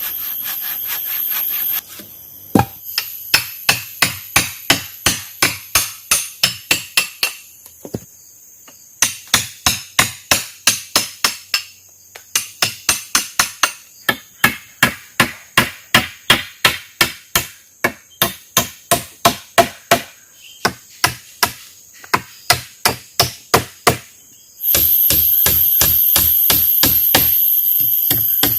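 A tool striking wood over and over, about two blows a second, with two short pauses, as in shelter building. A steady high insect drone is heard at the start and again near the end.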